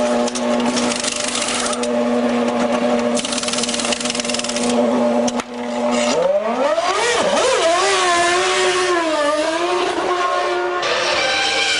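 1999 Formula One car's V10 engine held at a steady note, with two long stretches of hiss over it and a sharp click. About six seconds in, the revs climb steeply, then rise and fall in pitch as the car pulls away.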